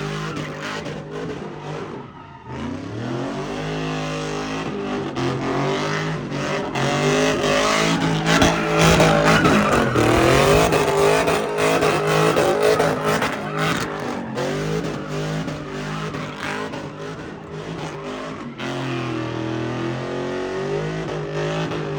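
A car engine revving hard, its pitch rising and falling repeatedly, over the screech of tyres spinning and sliding in a burnout, loudest about halfway through.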